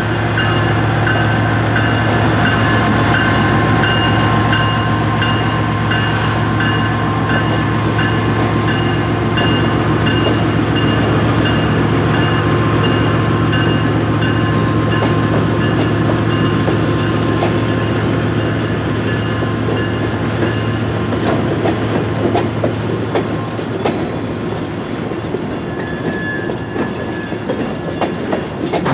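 BNSF diesel locomotives passing at close range, engines running with a steady low drone, while a grade-crossing bell rings in steady pulses. About two-thirds of the way through the engine drone fades and coal hopper cars roll past, their wheels clicking over the rail joints.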